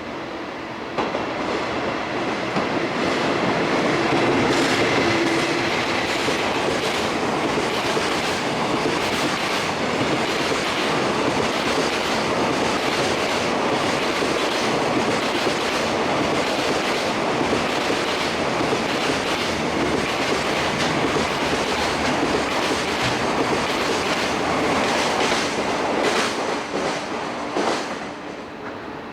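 ED76 electric locomotive hauling a long JR Freight train past at speed. The wagon wheels clatter steadily over rail joints; the sound comes up sharply about a second in and falls away near the end as the train clears.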